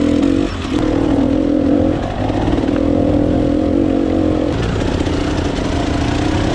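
Dirt bike engine running under throttle on a trail ride, its note dipping briefly three times as the throttle is rolled off and back on.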